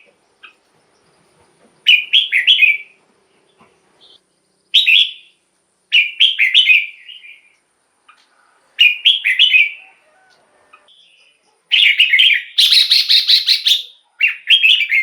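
Red-whiskered bulbul singing: short, bright phrases of a few quick warbled notes, repeated every second or two. Near the end comes a longer, denser run of song.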